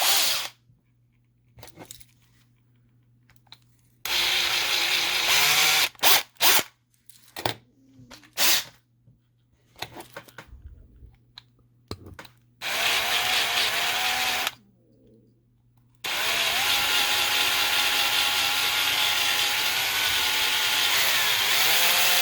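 Small power drill running in bursts as it drills out a rivet holding a diecast model's metal base. There are several short runs, then a long steady run of about six seconds near the end, with the motor pitch rising and falling as the bit bites.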